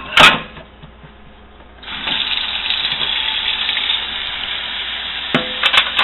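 A clink, then about two seconds in a kitchen faucet is turned on and runs steadily, the water splashing into a cereal bowl in the sink. A few light knocks come near the end.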